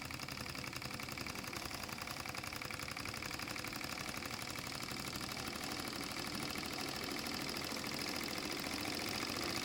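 Mamod SP6 miniature stationary steam engine with a double-acting cylinder running fast, a rapid, even mechanical beat that grows slowly louder as it picks up speed with the gas flame turned right up.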